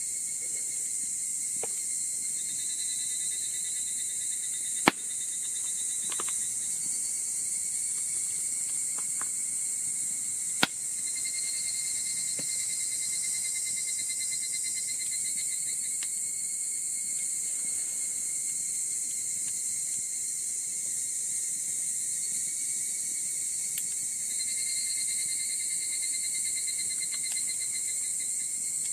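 A steady, high-pitched chorus of insects such as crickets, with lower trills fading in and out over it. Two sharp clicks stand out, about five and about ten and a half seconds in.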